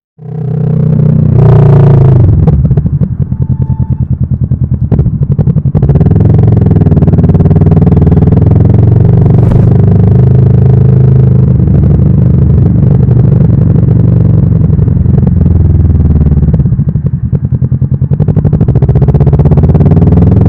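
Kawasaki Vulcan S motorcycle's parallel-twin engine and exhaust running under way. The sound comes in suddenly at the start, and the engine note eases off briefly about three seconds in and again near the end.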